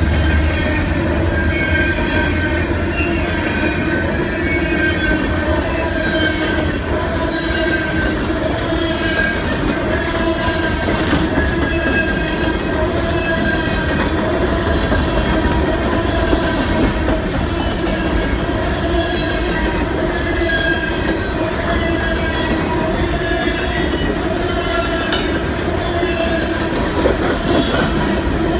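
A long string of empty steel coal hopper cars rolls past on the rails. It is a steady, loud wheel-on-rail rumble and rattle, with several steady whining tones from the wheels over it and an occasional clank.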